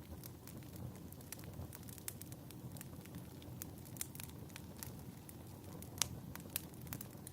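Fireplace fire crackling: irregular sharp pops and snaps over a steady low rumble, with the loudest pop about six seconds in.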